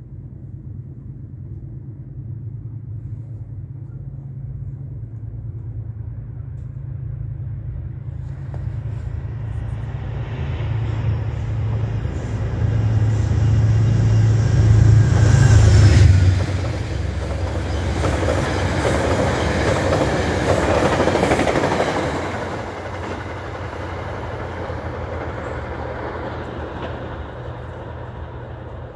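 Metro-North express train approaching and passing through the station without stopping. The lead unit's low hum builds steadily and drops off suddenly as it passes about sixteen seconds in, then the rushing and rattle of the cars' wheels on the rails peaks and fades as the train recedes.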